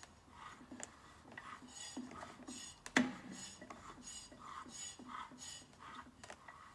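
Metal engine parts clinking by hand in a steady rhythm, about two light clinks a second, with one sharper metal knock about three seconds in.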